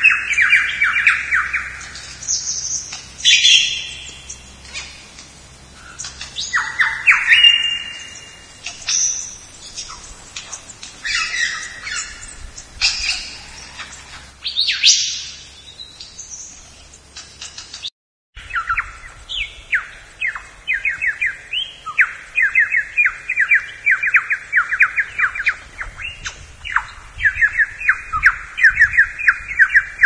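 Bird calls: assorted squawks and chirps at irregular intervals, then, after a brief silence about two-thirds of the way through, a rapid run of repeated chirps.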